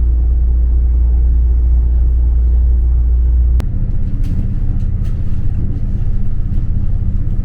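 Train rumbling with a steady low drone and hum. About three and a half seconds in it switches abruptly to a different, more rattly running sound with a low hum.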